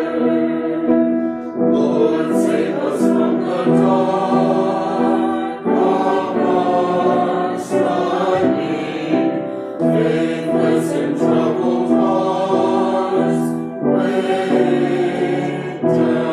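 Church choir singing, holding sustained chords that change every few seconds.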